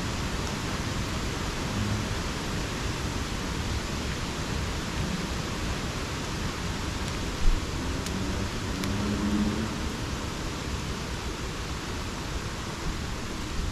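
Steady rain falling as an even hiss, with one brief low thump about halfway through.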